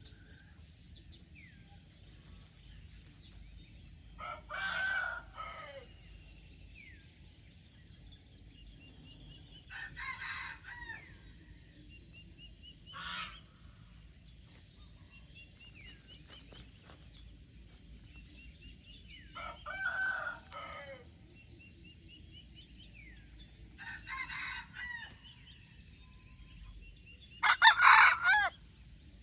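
A rooster crowing six times, each crow about a second long and the last the loudest. Behind it runs a steady high insect drone with faint chirps of small birds.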